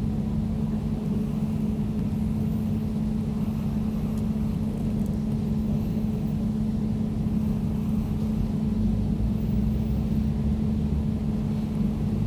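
Air conditioner running steadily: a constant low hum with a steady droning tone over a low rumble.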